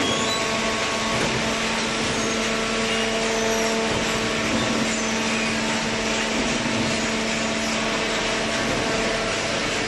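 Hydraulic carton box baler running: a steady mechanical hum from its pump motor, with a constant whine over a noisy machine background.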